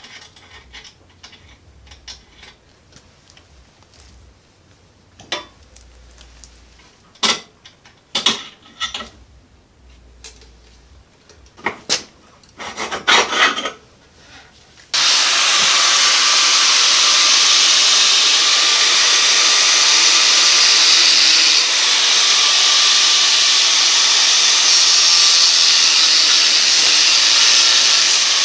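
Scattered metal clanks and knocks from parts being worked loose, then about halfway through a power cutting tool starts abruptly and runs loud and steady, cutting through metal exhaust pipe.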